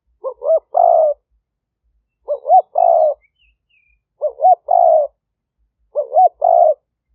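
Spotted dove cooing: four phrases about every two seconds, each two short hooting notes followed by a longer burry coo. Faint chirps of other birds come in midway.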